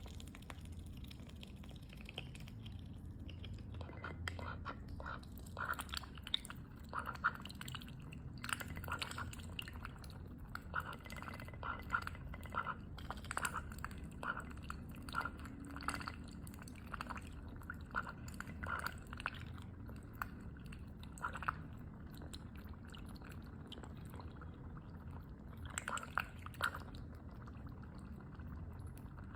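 A pet duck eating carrot pieces: irregular quick clicks and snaps of its bill, in runs, with a lull of a few seconds about three-quarters of the way through before a few more.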